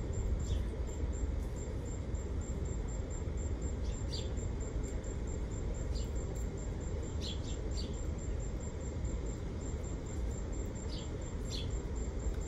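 Outdoor background: a steady low rumble with short, high bird chirps about nine times, several bunched just past the middle and two near the end.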